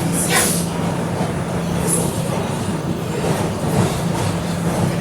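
R211 subway car running between stations, heard from inside: a steady rumble of wheels on the track over a low, even hum, with a short high hiss or screech about a third of a second in.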